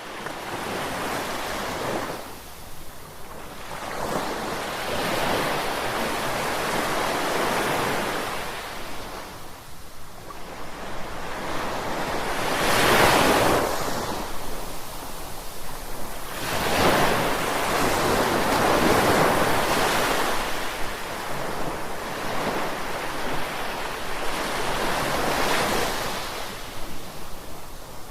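Ocean waves breaking and washing onto shore, surging and receding every few seconds, with a strong wash a little before the middle. Some wind on the microphone.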